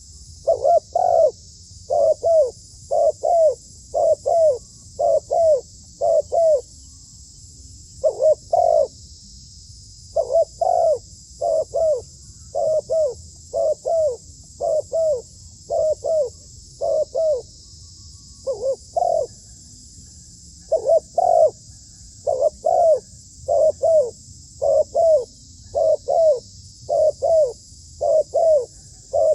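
Zebra dove calling: short double coos repeated about once a second, broken by two brief pauses. A steady high hiss runs underneath.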